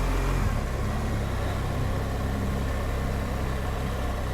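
BMW R1200GSA's flat-twin engine running steadily as the motorcycle is ridden along at an even pace.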